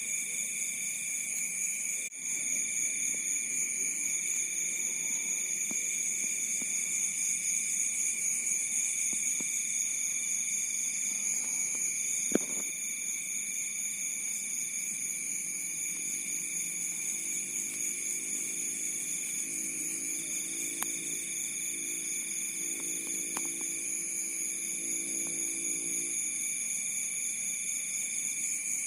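Chorus of crickets chirping: several steady high trills at different pitches, one of them in phrases of about two seconds with short breaks between. A single sharp click a little before halfway.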